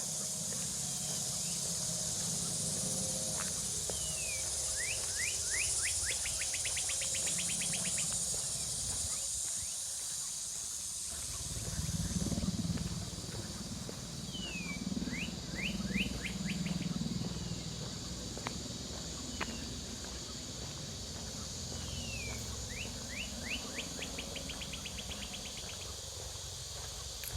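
A songbird singing the same song three times, each a falling note then a quickening run of short notes that ends in a trill. A high steady insect buzz fills the first ten seconds or so, over a low rumble.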